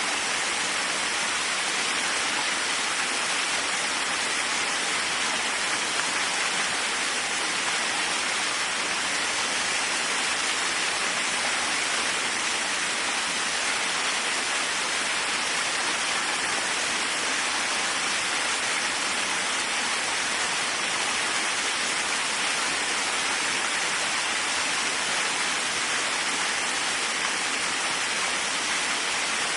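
Waterfall: a steady, even rush of falling water, strongest in the higher hiss, with no change in level.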